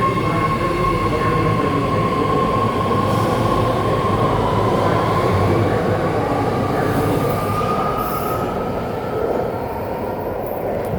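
BART train pulling out of the station: a steady high whine that rises slowly in pitch as it gathers speed, over the rumble of the train, fading near the end.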